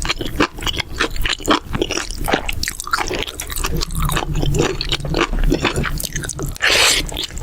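Close-miked chewing of mala xiang guo, with wet squishy mouth sounds and many rapid small clicks. A brief louder burst of noise comes near the end.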